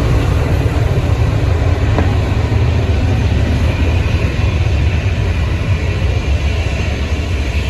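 Jet airliner engines giving a loud, steady low rumble.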